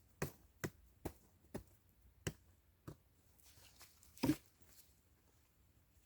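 A series of sharp knocks or taps, about seven of them, spaced half a second apart and slowing, with the loudest about four seconds in.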